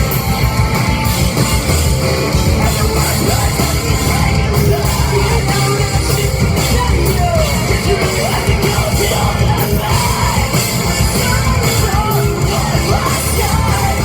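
Live rock band playing heavy, loud music with drums, bass and guitars, and a voice singing over it from about five seconds in.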